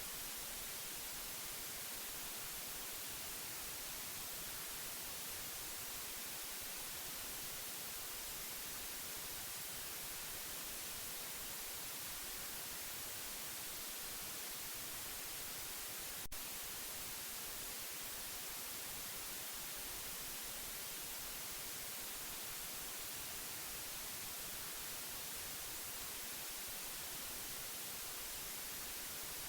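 Steady white noise, an even hiss. It is interrupted once, a little past halfway, by a single brief click.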